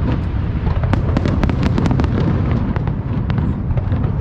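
Aerial fireworks display: a dense, continuous low rumble of shell bursts, with many sharp crackling pops layered on top.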